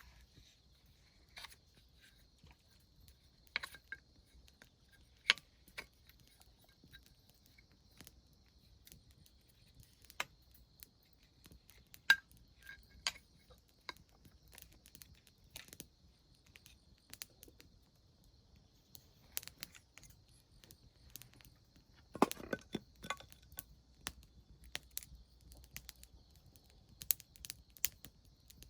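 Wood campfire crackling: scattered sharp pops and snaps at irregular intervals, with a louder burst of crackles about two-thirds of the way through.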